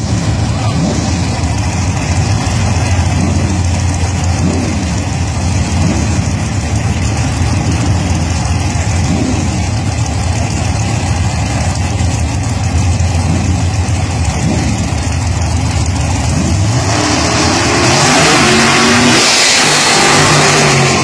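Drag-racing first-generation Chevrolet Camaro engine running at a steady low rumble, blipped up and down again and again. About seventeen seconds in it opens up to full throttle, and a loud rushing noise builds over the engine.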